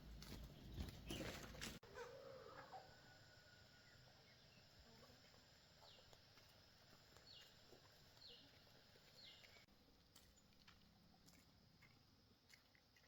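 Near silence, with a few faint knocks in the first two seconds and about four short, faint high chirps falling in pitch in the middle.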